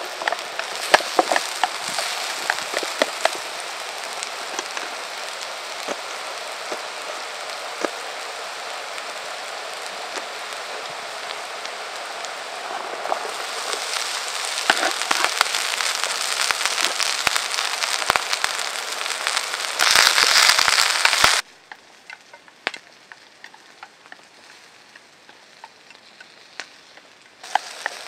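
Food sizzling in a pan over a campfire, with the fire's wood crackling and popping. The sizzle grows louder partway through, drops suddenly to a faint hiss with scattered crackles about 21 seconds in, and returns near the end.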